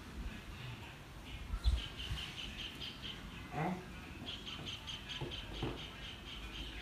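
A bird chirping in quick runs of short, high notes, about six a second: one run about two seconds in and a longer one from about four seconds on. A dull thump, the loudest sound, comes just before the first run.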